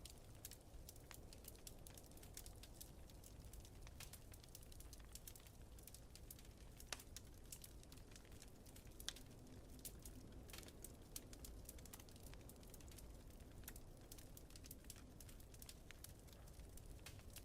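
Quiet wood fire crackling in a fireplace: a dense, irregular stream of small pops and snaps, with a couple of louder pops about seven and nine seconds in, over a steady low rumble.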